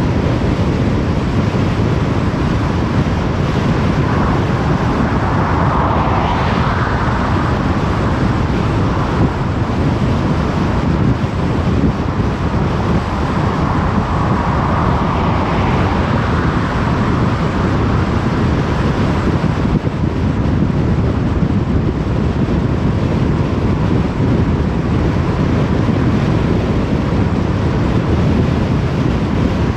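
Steady road noise of a car driving on a motorway: tyre and wind noise at cruising speed, with two swells about six and fourteen seconds in.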